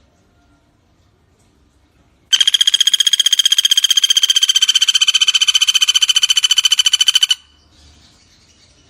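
Common flameback woodpecker (pelatuk bawang) giving its rattling call: one rapid, even trill of many quick notes at a steady pitch. It starts about two seconds in and stops abruptly after about five seconds.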